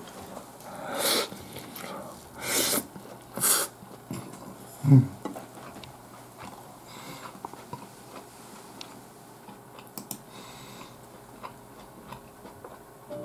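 Close-up chewing of a spoonful of omelet-wrapped fried rice, with three short breathy hisses in the first four seconds and a single low thump about five seconds in, followed by soft chewing and small clicks.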